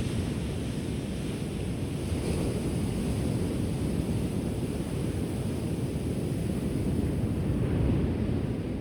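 Ocean waves washing onto the shore, a steady deep rushing sound that swells as a wave breaks about two seconds in and again near the end.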